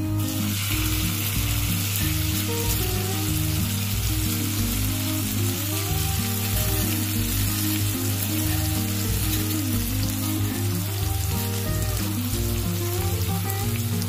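Ground red chili paste sizzling in hot oil with sliced shallots in a wok. The sizzle jumps up suddenly as the paste goes in and then carries on steadily. Background music with a bass line plays underneath.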